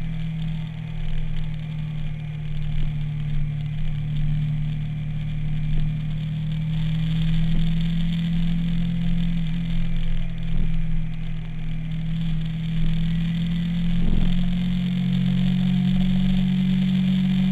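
Twin-cylinder motorcycle engine running steadily at road speed, with wind and road noise over it. About fourteen seconds in there is a brief knock and the engine note settles at a new steady pitch.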